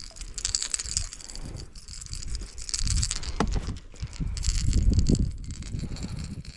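Irregular handling noises on a fishing kayak: scattered clicks and light knocks with rustling and low thumps, as a hooked bass and a multi-hook topwater lure are handled.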